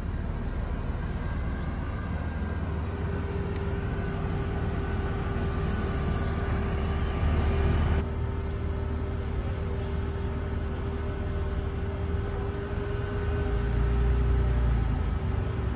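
A DSB IC3 diesel multiple unit running slowly into the platform and drawing to a stop. Its engines give a steady low rumble, with a steady humming tone over it, and the sound swells again near the end.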